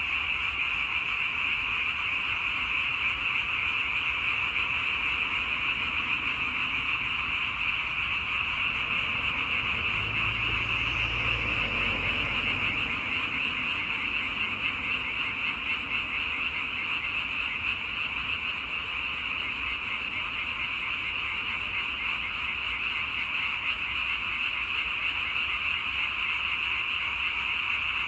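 A dense chorus of many frogs calling at once, a steady unbroken mass of rapid croaks.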